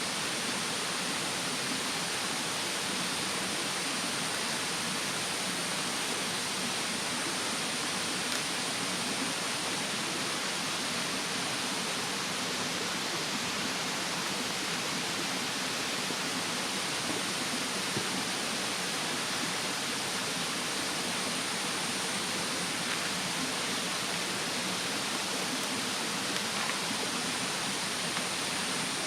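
Steady rush of a mountain stream, with a thin, steady high drone of insects above it and a few faint crackles from the wood fire.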